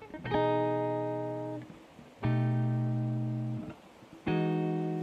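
Music: a guitar strikes three sustained chords about two seconds apart, each left to ring out and fade.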